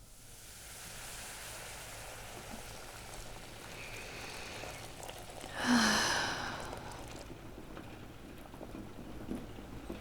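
Steady rain ambience mixed with brown noise, fading in at the start. A brief, louder breathy sound stands out about six seconds in.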